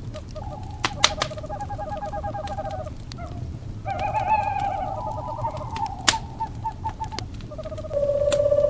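Owls calling in rapid trilled, wavering calls over a crackling fire, with a few sharp pops from the fire. A long steady tone starts near the end.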